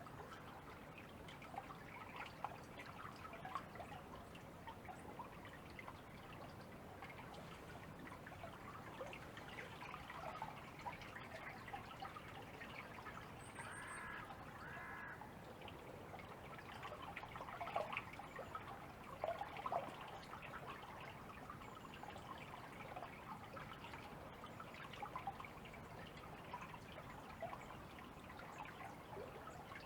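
Faint water sounds from kayak paddling: the paddle blades dipping, with water dripping and trickling off them in many small splashes. About halfway through, a bird calls twice.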